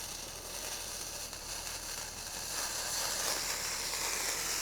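Steady sizzling hiss, louder from about two and a half seconds in.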